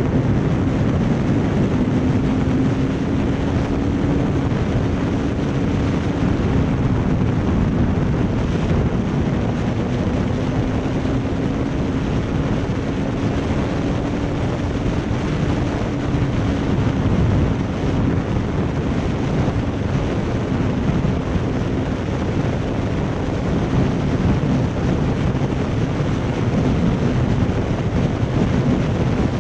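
Motorcycle engine running at a steady, slightly wavering pitch while riding, under heavy wind noise on the microphone.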